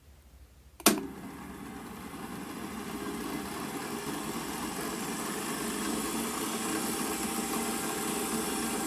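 Milling machine spindle switched on with a sharp click about a second in, then its motor running and spinning up, growing steadily louder as it comes up to speed.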